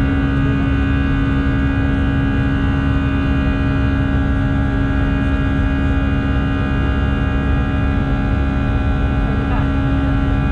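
Steady cabin drone of an Airbus A319-111 climbing after takeoff: its CFM56 jet engines and the airflow make a low rumble with a strong hum and several thin whining tones over it.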